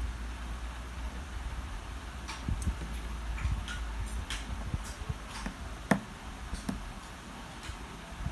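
Small irregular clicks and taps of a watch and small hand tools being handled during a battery replacement, with one sharper click about six seconds in, over a low steady rumble.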